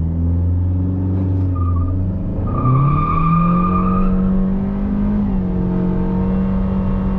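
Remapped 2021 Honda Civic Touring's 1.5 turbo four-cylinder under full-throttle acceleration with its CVT. The engine note holds steady and low at first, climbs about two and a half seconds in, then stays at one high, steady pitch as the CVT holds the revs. A thin high whine runs alongside for a second or so partway through.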